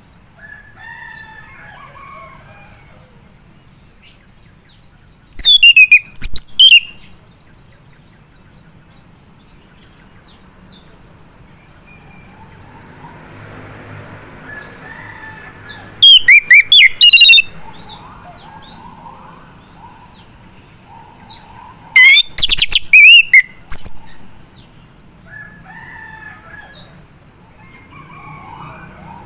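Male chestnut-capped thrush (anis kembang) singing: three loud, one-to-two-second bursts of rapid, high sweeping notes several seconds apart, with softer twittering phrases between them.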